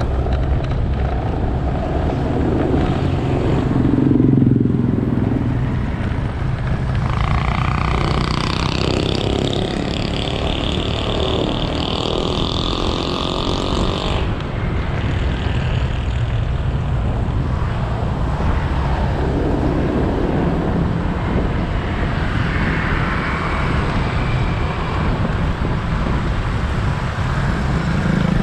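Motorcycle engine running steadily with road and wind noise, heard from the rider's seat. A higher-pitched noise rides over it for several seconds in the middle.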